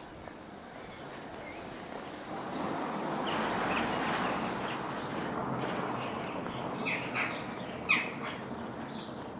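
Birds calling in short, harsh, squawking notes, a few of them in the last couple of seconds, the loudest about two thirds of the way in. Before them, a rushing noise swells and fades in the middle.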